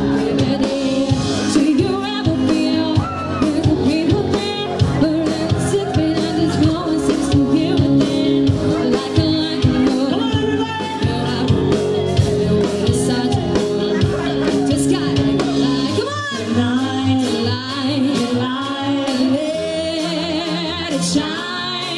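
Live band performing a pop-rock song with a woman singing lead. The low end thins out for a moment about three-quarters of the way through.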